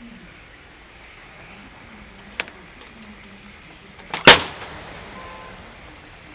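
A sharp click, then about two seconds later a much louder sharp knock.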